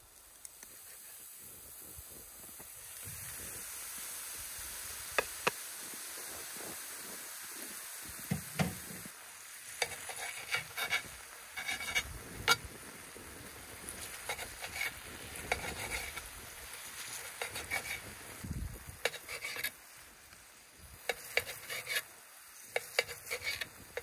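Sliced peppers, mushrooms and steak sizzling in oil on a hot griddle plate, the sizzle building over the first few seconds. From about five seconds in, metal tongs click and scrape against the plate as the food is turned.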